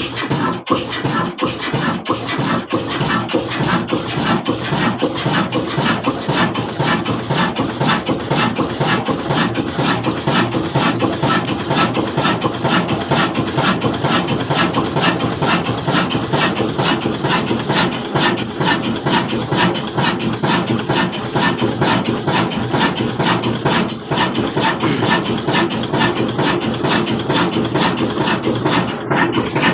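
Old black diesel engine running steadily with an even, rapid beat.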